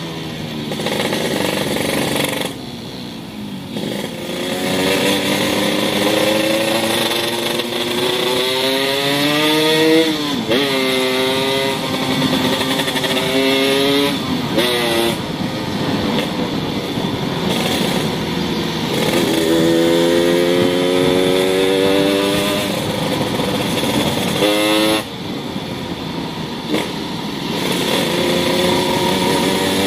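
Yamaha YT115 motorcycle engine revving through a custom racing exhaust built from a Yamaha RX-King exhaust. The revs rise and fall several times, with a few abrupt breaks.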